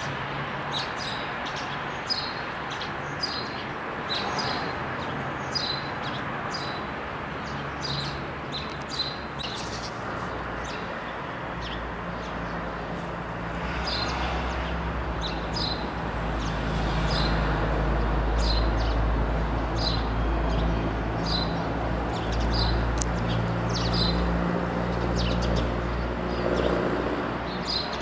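Small birds chirping, short high chirps roughly once a second, over a steady outdoor hiss. About eleven seconds in a deep low rumble comes in and stays, the loudest sound from then on.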